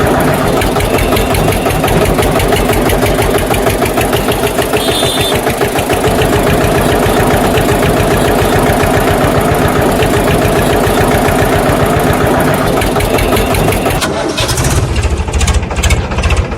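An engine running steadily with a rapid, even pulse. About fourteen seconds in its sound changes to a lower, heavier pulsing.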